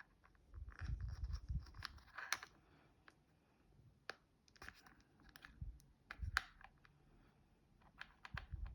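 Small plastic toy pieces being handled and pushed together: scattered light clicks and scrapes with a few dull bumps.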